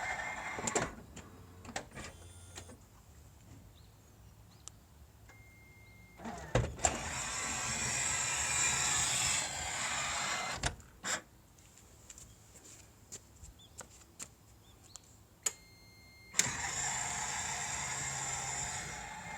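Power sliding door of a 2004 Toyota Estima (ACR30) running along its track three times, each run a few seconds of motor and mechanism noise. Sharp clunks and clicks come at the ends of travel, and a steady warning beep sounds twice. The owner hears an abnormal noise from near the door's lower arm and suspects a fault in the door's cable take-up (winding wire) mechanism.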